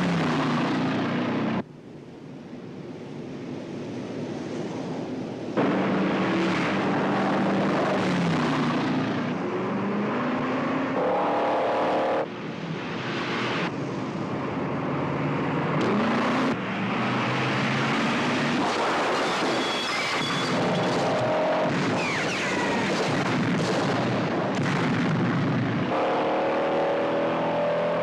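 Car engines revving hard and changing pitch in a car chase, with tyre and road noise. The sound jumps abruptly at several edit cuts, and one stretch a couple of seconds in drops quieter before building up again.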